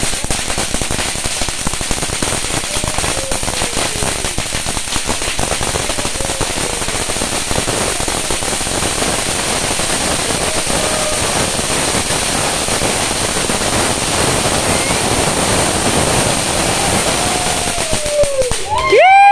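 Wood bonfire crackling and popping steadily, with faint voices in the background.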